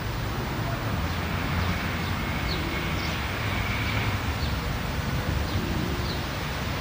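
Steady outdoor city ambience: a low, even rumble of distant traffic under a wash of noise, with a few faint, short bird chirps.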